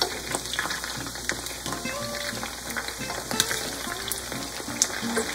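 Background music over chicken drumsticks sizzling and crackling as they fry in oil, with sharp clicks of a metal fork turning them in a nonstick frying pan.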